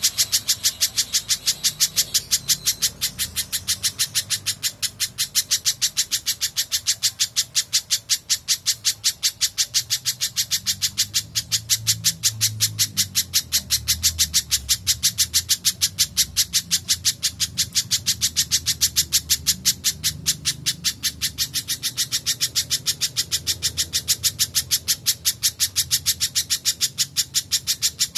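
Spiderhunter (pijantung) calling nonstop: a rapid, evenly spaced string of sharp, high chirping notes, several a second, with no break.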